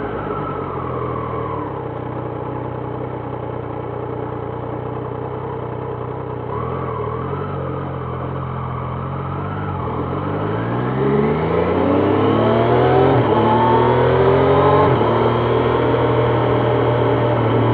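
Triumph Trident 660's inline three-cylinder engine under way, running low and steady at first, then climbing in pitch as the bike accelerates. Late on the pitch drops suddenly with an upshift, and the engine settles into a steady, louder note.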